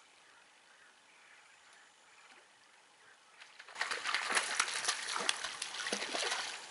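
Quiet for the first half. Then, about halfway in, close water splashing starts and runs for about three seconds: a dense, crackling splash that stops just before the end.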